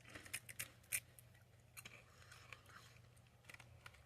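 Faint crunching of crisp lentil chips being bitten and chewed: a cluster of sharp crackles in the first second, then fainter scattered crunches.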